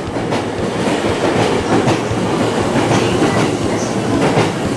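Chuo Line electric commuter train running along the track, a steady rumble with a few sharp clicks as the wheels pass over rail joints.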